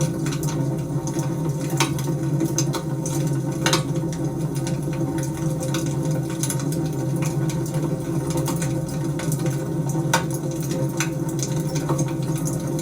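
Wood fire burning in a fireplace: a steady low rushing of the flames with sharp, irregular crackles and pops from the burning wood.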